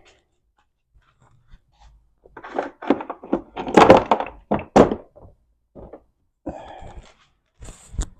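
Heavy metal transmission parts clunking and clattering against each other and the bench as they are handled and set down: a run of knocks about halfway through, then a few lighter clicks.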